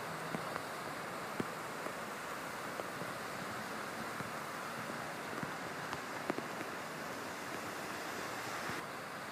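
Steady rush of heavy rain together with car tyres hissing and splashing through standing water on a flooded road, with scattered sharp ticks throughout.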